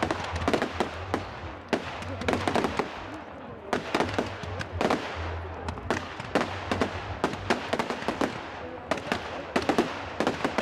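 Fireworks display: a dense, irregular string of bangs and crackles from bursting shells, several a second throughout.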